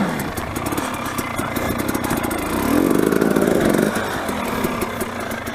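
Dirt bike engine revving up and down in bursts, rising near the start and again about three seconds in, as it labours on a steep, rough climb.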